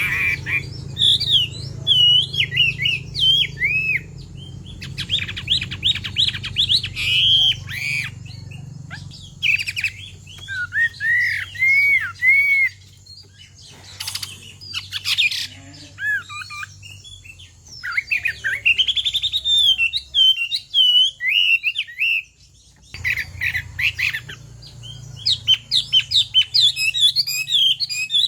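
Chinese hwamei singing: a long, varied run of loud whistled phrases with quick rising and falling notes, broken by short pauses and mixed with harsh rasping notes.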